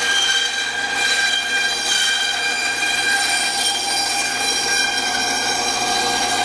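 Band saw running with a steady whine, its blade cutting through a hardwood cabriole leg blank.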